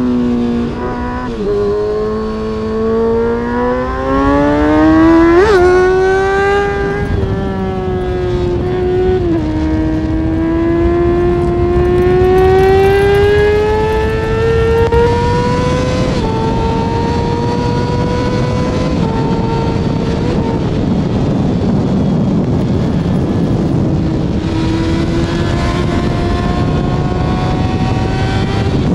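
Kawasaki ZX-6R inline-four sport bike engine through an Arrow titanium race exhaust, pulling under load: the pitch climbs steadily and drops back sharply at gear changes several times. Wind and road noise run underneath.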